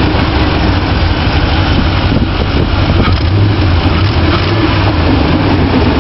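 Straight-piped 5.7 L Vortec V8 of a 1996 Chevy 1500 running steadily with no mufflers, loud with a deep exhaust note.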